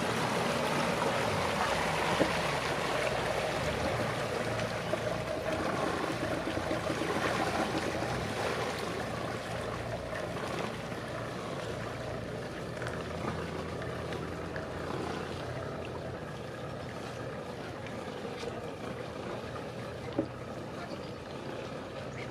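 Motor cruiser's engine running as it passes on the river, a steady low drone with water wash, gradually fading. A single short knock sounds near the end.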